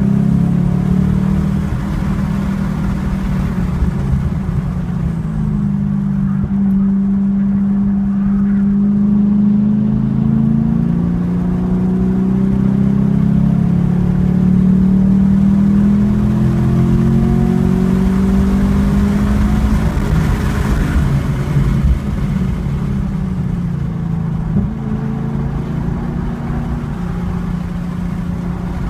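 2014 Chevrolet Camaro SS 1LE's 6.2-litre V8, heard from inside the cabin, pulling in third gear between about 3,500 and 4,400 rpm through a run of corners. The engine note rises and falls gradually with throttle and speed.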